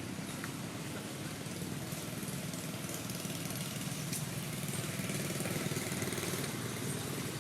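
A motor engine running steadily, a little louder about five seconds in.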